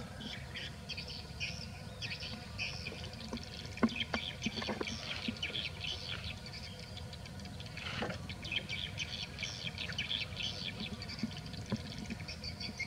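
Small birds chirping and twittering in quick, overlapping calls, over a low outdoor rumble, with a few sharp clicks around four to five seconds in and again at about eight seconds.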